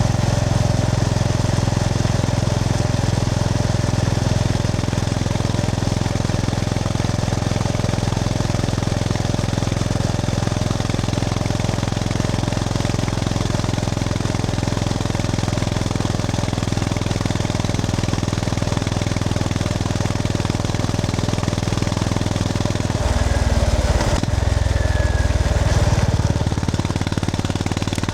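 Honda GB350S air-cooled single-cylinder engine running steadily under way. Near the end, the engine note changes for a few seconds, then settles again.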